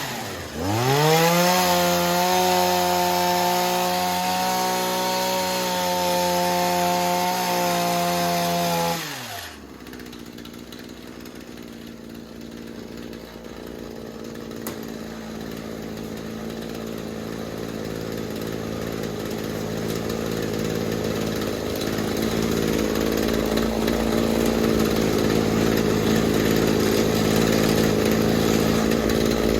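Shindaiwa hedge trimmer's two-stroke engine running at high revs, held steady for about nine seconds, then dropping back to a steady idle. It runs cleanly on its repaired fuel lines and primer bulb, with no need to pull the carburettor.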